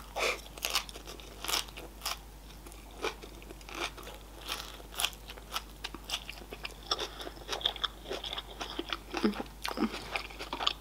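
A person chewing a mouthful of crisp lettuce-and-tomato salad, close to the microphone: irregular crunches throughout.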